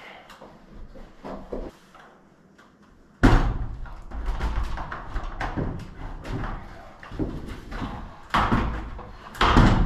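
Stiff PEX tubing being worked through holes drilled in wooden joists: irregular knocks, scrapes and thumps that start suddenly about three seconds in, with another loud thump near the end.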